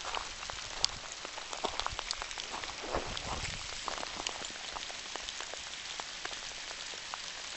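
Steady rain falling, with many separate drops ticking close by and a brief low rumble about three seconds in.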